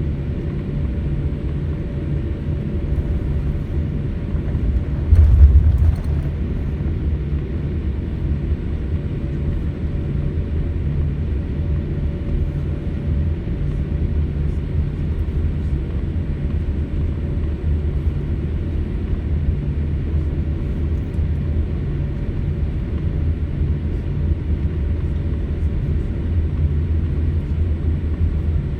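Cabin noise of a jet airliner on the ground before takeoff: a steady low rumble of the engines and airframe with a constant hum. About five seconds in there is a brief, louder low thump.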